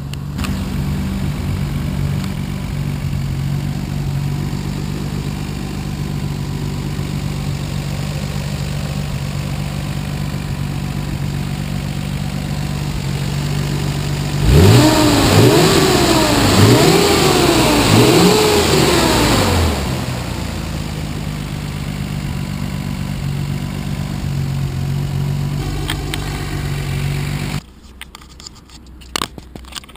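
Nissan RB26DETT twin-turbo straight-six idling steadily, then revved in four quick blips, the pitch rising and falling with each, before settling back to idle. The revs are heard from the engine bay, where the engine breathes through an Apex'i pod-filter intake. Near the end the engine sound gives way to a quieter car interior with a few clicks.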